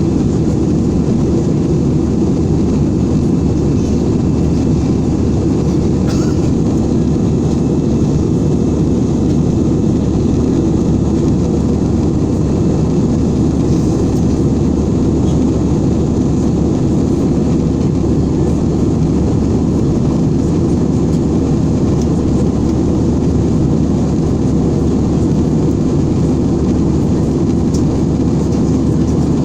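Steady low rumble of engine and airflow noise inside an airliner's cabin in flight.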